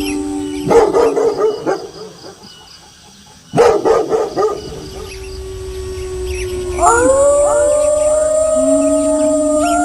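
Wolves howling in long drawn-out calls, broken by two short bouts of dog barking about one and four seconds in; about seven seconds in, several howls rise together and overlap in a chorus.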